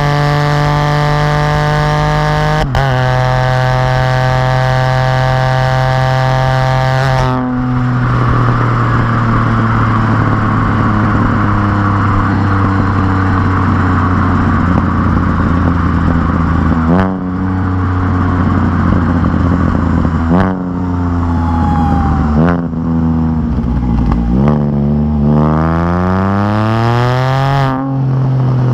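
Exhaust of a 2020 Can-Am Spyder RT's Rotax 1330 inline three-cylinder engine, with an RLS Crusher exhaust and the catalytic converter removed, heard while riding, with a deep note. For the first several seconds it runs steadily with the revs slowly easing. In the second half it accelerates, the revs rising between brief dips at gear changes, about five of them.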